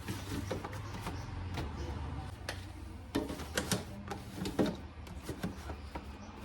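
Irregular knocks, clicks and rustling of vegetables and containers being handled and stowed in a refrigerator, over a low steady hum.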